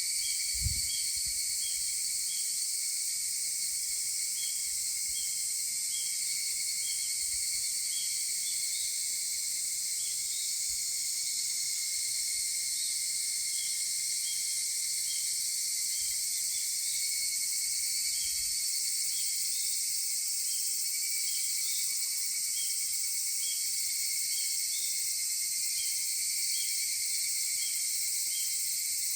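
A chorus of higurashi (evening cicadas, Tanna japonensis) calling: a dense, steady high shrill, with a train of short chirps repeating about twice a second throughout. A soft low thump comes just under a second in.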